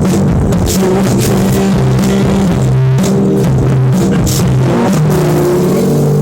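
Live band music recorded loud and distorted, with sustained low bass notes changing every second or so and a drum beat.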